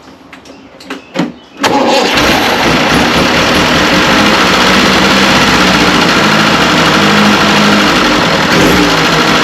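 Old petrol engine starting: a few clicks, then about one and a half seconds in it catches at once and runs steadily and loud. It is being test-run after loose nuts were tightened to cure a vacuum leak that made it misfire and lose power at about 1,000 rpm.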